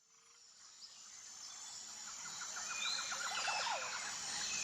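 Outdoor nature ambience fading in from silence: a steady high hiss with birds chirping, and a quick rattling trill a little past the middle.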